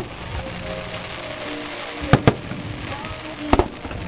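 Aerial fireworks shells bursting with sharp bangs: one at the start, two in quick succession about two seconds in, and another close pair near the end, over music and crowd voices.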